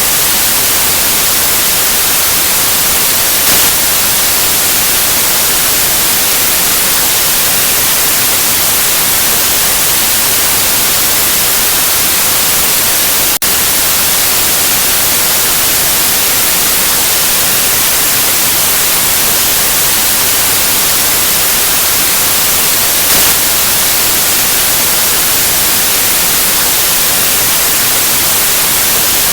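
Steady generated white noise: an even hiss spread across all pitches, brightest in the highs, with a momentary dip in level about thirteen seconds in.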